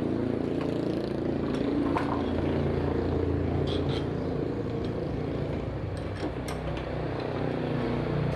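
A small engine running steadily, with a low hum that swells and eases a little, and a few light clicks and taps over it.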